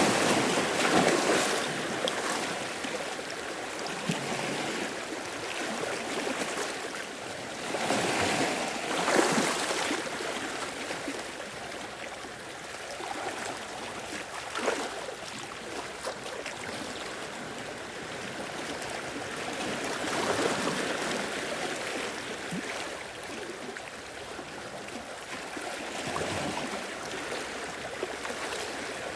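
Ocean waves breaking and washing in, swelling in a series of surges several seconds apart, loudest at the start and again about a third of the way in.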